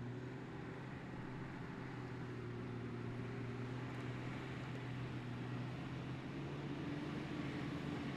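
Off-road 4x4's engine idling, a steady low drone with a faint higher tone coming in near the end.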